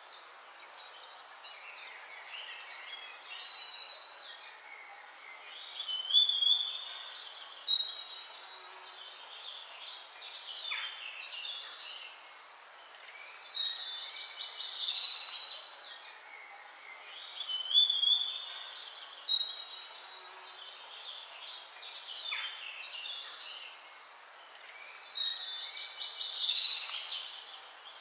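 Songbirds singing: high chirps, trills and short rising whistles from several birds over a faint hiss. Louder bursts of song come about every six seconds, and the same phrases return about every eleven to twelve seconds.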